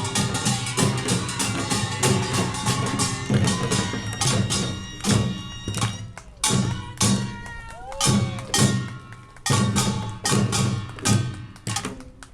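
Korean pungmul percussion band, ringing small gongs and drums, playing a fast, dense rhythm. About five seconds in it breaks into loud, widely spaced strikes roughly a second apart, the slowing close of the piece.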